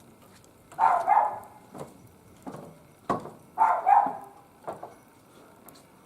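A dog barking: two pairs of short barks, the first about a second in and the second nearly three seconds later, with a few light knocks in between.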